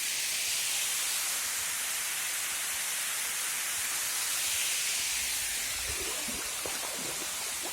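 Steady rush of a waterfall's falling water, an even hiss.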